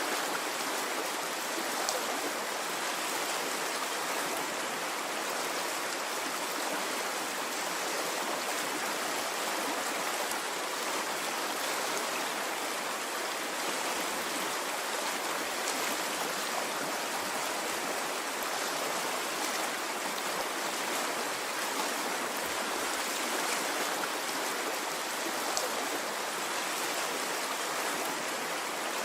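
Water of a stream flowing steadily, an even rushing and splashing with no rise and fall.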